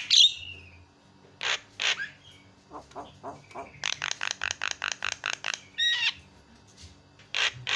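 Javan myna (jalak kebo) calling: a few harsh, scratchy calls, then soft chattering notes, then a fast run of about a dozen rasping notes in the middle, and more single calls near the end.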